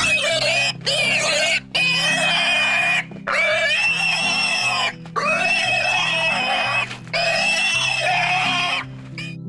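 An animal giving about five loud, long, high-pitched calls in a row, each lasting one to two seconds with short breaks between, over soft background piano music.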